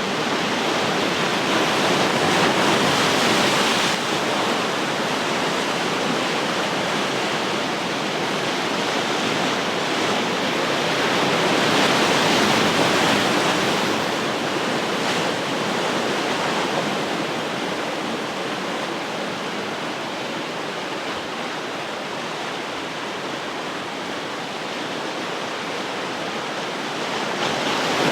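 Ocean surf washing onto the shore: a steady rushing hiss of breaking waves that swells about three seconds in and again about twelve seconds in, then eases off before building again at the end.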